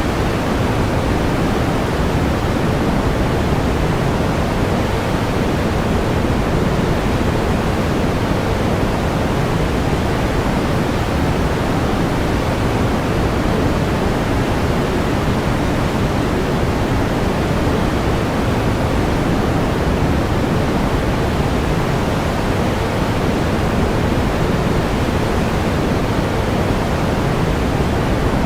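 Steady pink noise: an even, unchanging hiss, deeper and softer than white noise.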